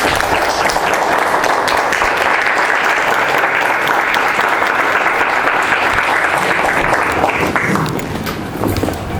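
Audience applauding, a steady dense clapping that dies down about eight seconds in.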